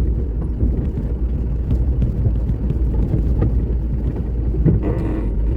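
Vehicle in motion: a steady low rumble of engine and road noise, with scattered small knocks.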